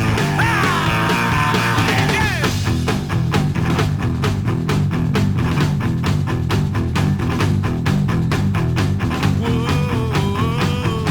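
Rockabilly band playing: sliding, bending guitar notes, then a driving drum beat takes over about two and a half seconds in, with a wavering pitched line entering near the end.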